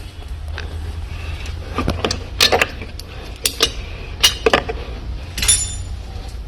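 Metal hand tools and fittings clinking and knocking, about half a dozen sharp clinks from two seconds in, the last one ringing briefly, over a steady low hum.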